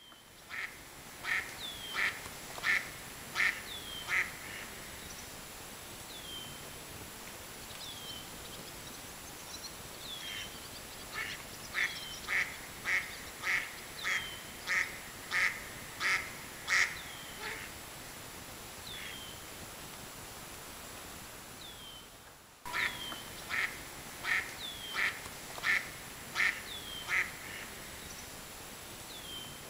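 Birds calling: runs of short, evenly spaced calls, about one and a half a second, each run lasting several seconds, with a short high falling note from another bird repeating between them.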